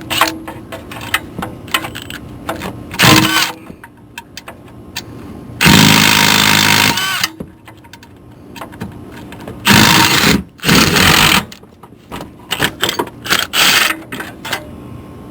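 A powered wrench on a vehicle bolt running in bursts with a buzzing motor: a short burst about three seconds in, a longer one of about a second and a half, then two more close together near the end. Small metallic clicks of tools come in between.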